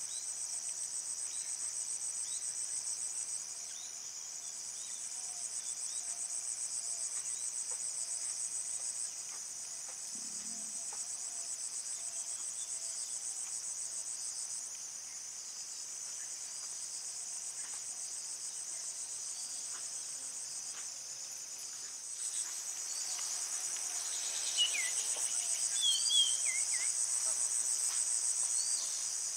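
Crickets trilling: a steady, high, fast-pulsed chorus that eases and swells a few times. A few short high chirps come near the end.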